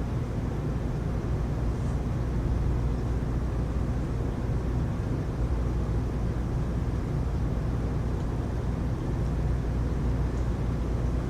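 Heavy rain falling steadily, a constant noise with most of its weight low down.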